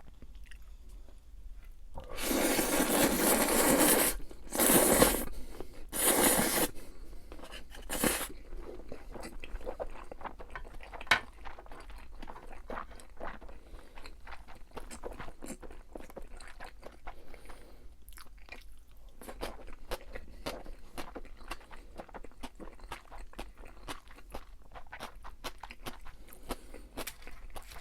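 A person eating noodles and fried pork and chewing, with a long loud noisy stretch about two seconds in and three shorter bursts after it, then a long run of small chewing clicks.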